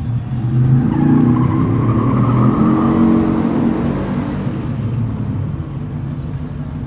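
2005 Suburban 2500's 8.1-litre big-block V8 running through a custom cat-back exhaust, its note swelling about a second in and then slowly easing off.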